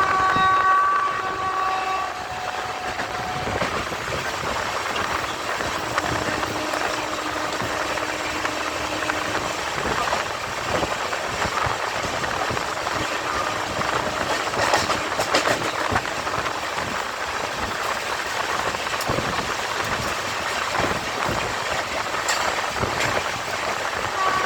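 Train running through a station without stopping: a steady rolling rattle of wheels on rails, with frequent clicks over the track. A horn-like chord of steady tones sounds for about the first two seconds.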